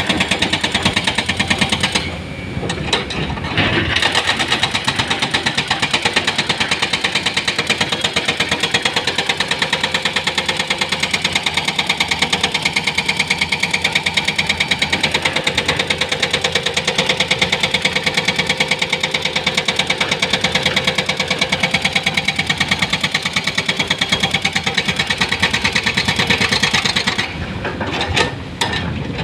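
Heavy diesel engine running steadily with a fast, even throb. It dips briefly about two seconds in and again near the end.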